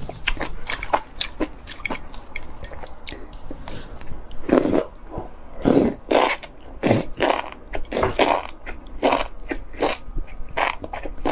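Someone chewing and biting spicy enoki mushrooms: a rapid run of wet mouth clicks, with louder smacks about once a second in the second half.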